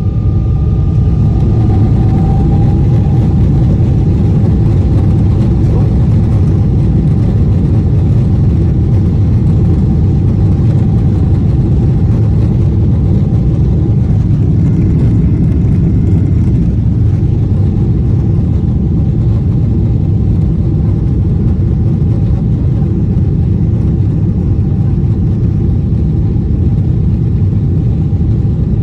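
Jet airliner engines at takeoff power heard from inside the passenger cabin: a loud, steady low rumble that swells in the first second and then holds, with a faint steady whine above it.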